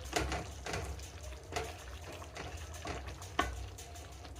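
Spoon stirring chicken stew in a cooking pot, with a few scattered knocks of the spoon against the pot.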